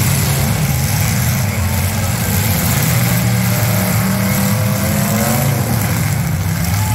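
Several V8 demolition derby cars' engines running and revving together in a steady, loud drone, with revs rising about five seconds in.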